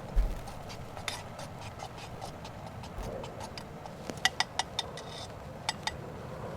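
Scattered light clicks and taps, with a quick run of them a little past four seconds in and two more near six seconds.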